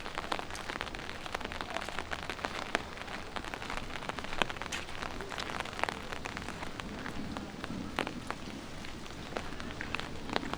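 Light rain falling on city surfaces: a steady hiss with a dense, irregular scatter of small drop ticks.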